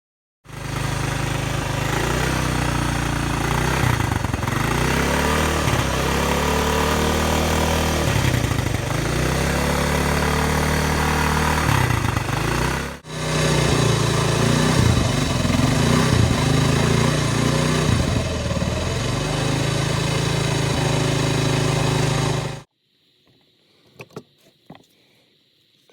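1966 Honda CM91's 90 cc single-cylinder four-stroke engine running, with a brief break about halfway through, then cutting off abruptly near the end.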